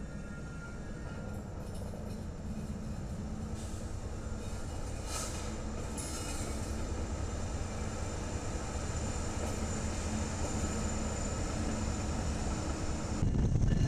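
Freight train rolling past behind two diesel-electric locomotives: a steady engine rumble and wheel noise on the rails, growing gradually louder as the train goes by.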